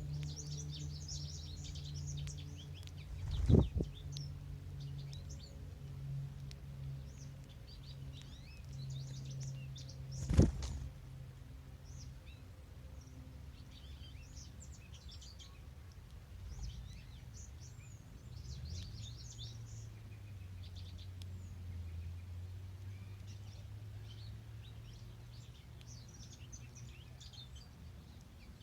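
Several songbirds chirping and singing in short, high phrases over a steady low background hum. Two short thumps stand out, one a few seconds in and one about ten seconds in.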